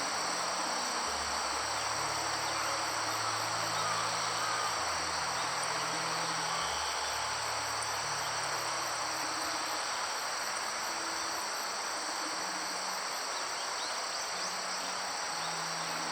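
A steady chorus of crickets and other insects, a continuous high-pitched chirring with a fast pulsing trill above it, over an even rush of background noise.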